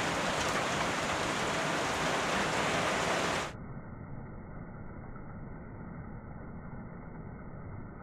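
Heavy thunderstorm rain pouring down, heard from under a shed roof. About three and a half seconds in it cuts to a quieter, duller recording of rain running off the edge of a corrugated roof.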